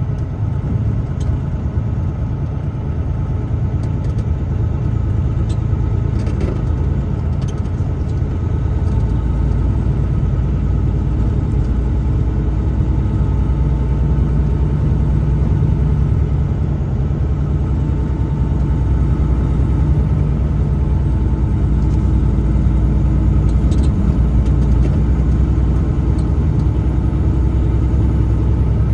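A truck on the move: a steady low rumble of engine and road noise.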